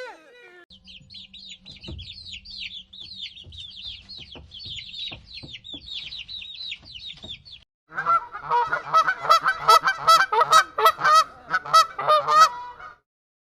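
Chickens: first a run of rapid, high peeping calls, each a quick falling chirp, then, about eight seconds in, a louder stretch of many overlapping clucks and cackles that stops suddenly near the end.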